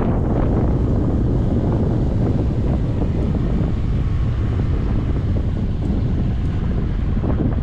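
Wind rushing over a GoPro's microphone on a moving motorcycle, with the motorcycle running underneath; steady and loud throughout.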